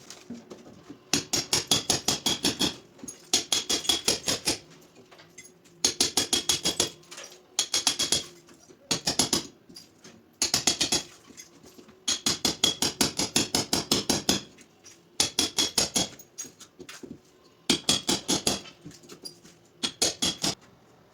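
A hand tool clicking rapidly against ceramic tile during tiling work, in bursts of one to two seconds at about eight sharp clicks a second, with short pauses between bursts.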